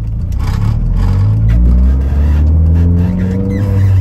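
Volkswagen GTI with a K04 hybrid turbo accelerating, heard from inside the cabin: the engine note climbs steadily for about three seconds, then drops near the end.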